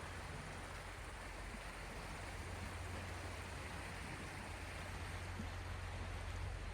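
Waves on the Gulf of Finland washing in a steady, even hiss, with a constant low rumble underneath.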